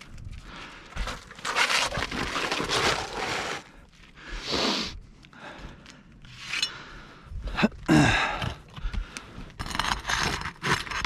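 Asphalt roof shingles being pried up and pulled loose, with scraping and tearing in irregular bursts as the shingles come free of their nails.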